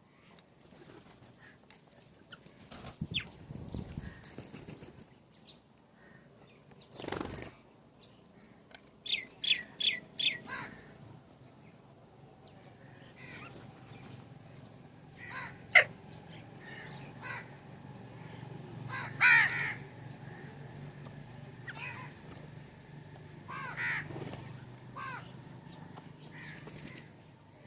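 Birds calling on and off, with a quick run of four or five harsh calls about a third of the way in and more scattered calls later. A single sharp click a little past halfway.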